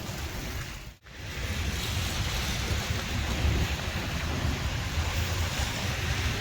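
Steady rushing noise of traffic on a wet, rainy road, with wind buffeting the microphone as a low rumble. The sound drops out briefly about a second in.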